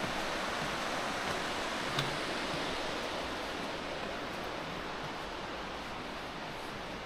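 Steady rushing of river water, with one faint click about two seconds in.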